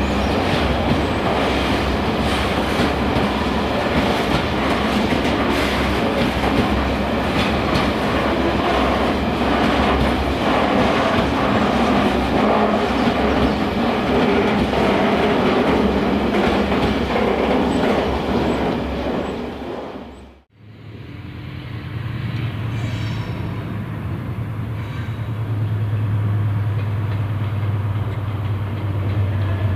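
A train passing close by, its wheels clattering over the rails. After a sudden cut about two-thirds of the way in, a locomotive runs with a low, steady hum that grows louder near the end.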